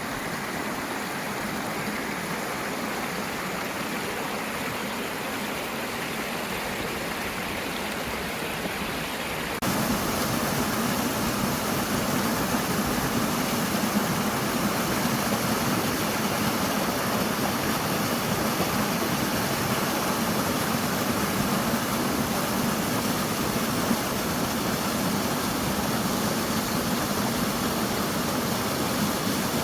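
Mountain valley stream, water flowing in a steady rush. About ten seconds in, it cuts suddenly to a louder, fuller rush.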